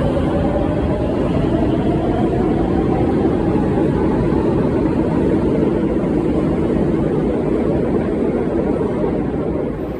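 A vehicle running steadily, with a motor tone that slowly falls in pitch over the first few seconds.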